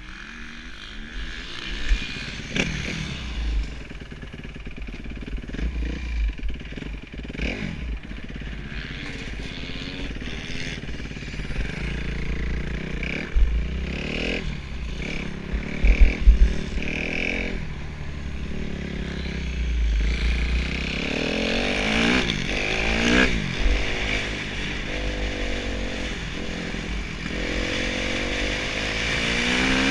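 Kawasaki KX250F single-cylinder four-stroke motocross engine being ridden hard, its pitch rising and falling over and over as the throttle opens and closes. A few sharp knocks come about halfway through, and the engine grows louder over the second half.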